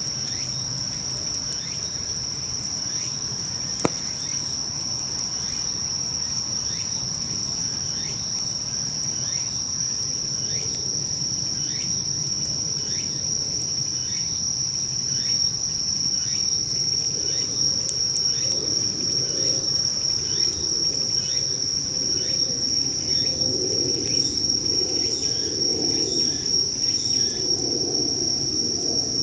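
Insects chirring: a continuous high, steady trill with fainter, repeating chirps beneath it. A single sharp pop comes about four seconds in, and a low noisy rustle grows louder in the second half.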